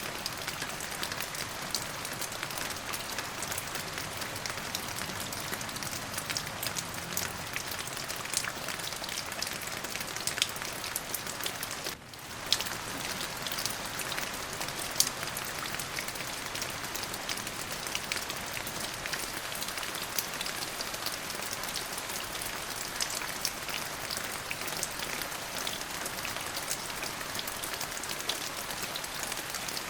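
Steady rain falling, a constant hiss with many separate drops ticking through it, and a brief dip in level about twelve seconds in.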